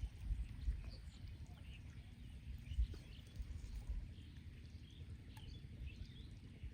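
Outdoor canal-side ambience: faint short bird chirps over low, uneven rumbling thumps on the microphone, with the strongest thump about three seconds in.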